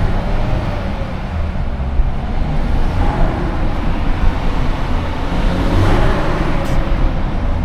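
Twin-charged Mercedes running under way, with a steady low rumble of engine and road noise; a faint higher tone rises and swells to a peak about six seconds in.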